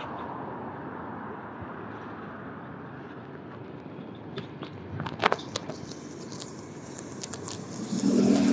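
City street traffic noise: a steady rumble, with a scatter of sharp clicks through the middle and a louder low drone starting about eight seconds in.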